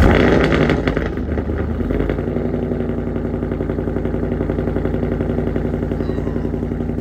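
A 2016 Ford Mustang GT's 5.0-litre V8 firing up with a brief, loud flare, then settling within about two seconds into a steady idle.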